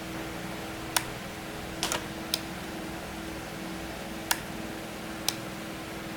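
Five short, sharp clicks at uneven spacing over a steady hum.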